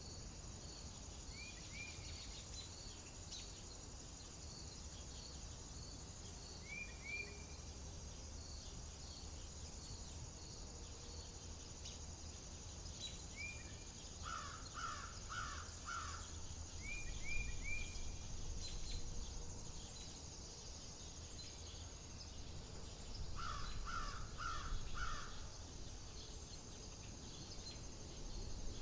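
A bird cawing in two runs of four calls, about halfway through and again near the end, over a steady string of high insect ticks, short chirps from a smaller bird, and a low wind rumble.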